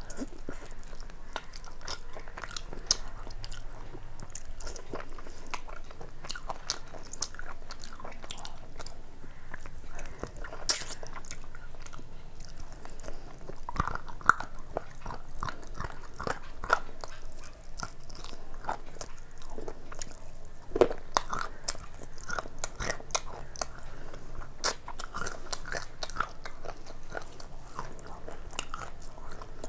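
A person chewing and smacking their lips close to the microphone while eating fried rice and a chicken leg piece by hand, with a steady run of wet mouth clicks and a few louder sharp clicks scattered through.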